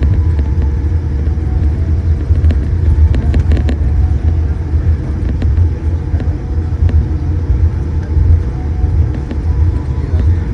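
Steady low rumble inside a Boeing 787-8 cabin after landing, with a faint steady hum over it and a few light clicks about three seconds in.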